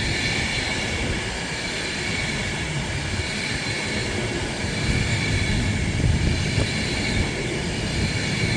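Class 390 Pendolino electric train passing slowly through the station, its wheels rumbling over the rails, with a steady high whine.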